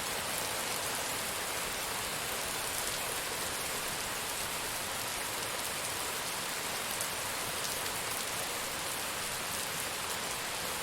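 Steady heavy rain falling and pattering on surfaces, an even hiss with fine drop ticks.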